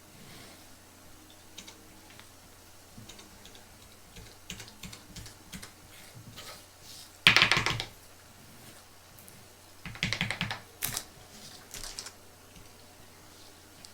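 Close-up clicking, tapping and rattling of small plastic items being handled, with a sharp burst of rapid clicks about halfway through and another about two thirds of the way in.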